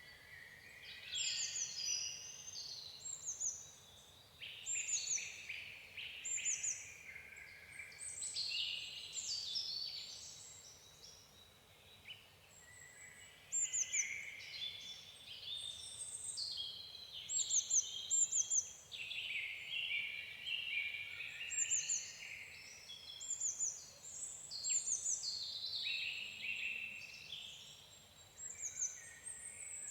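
Songbirds chirping and singing: many short, high, quick notes and falling trills, with a short lull near the middle.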